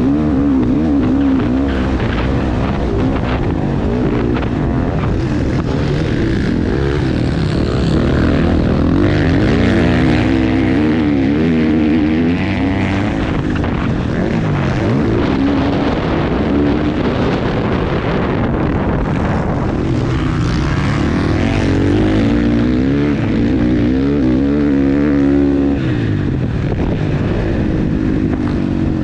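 KTM 450 single-cylinder four-stroke motocross bike engine being ridden hard around a track, its pitch rising and falling over and over as the throttle is opened and rolled off.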